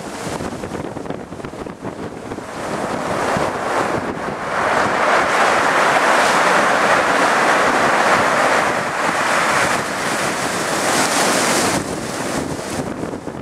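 Storm-surge sea waves rushing and breaking, with wind buffeting the microphone. The rush of water swells louder about four seconds in and eases again near the end.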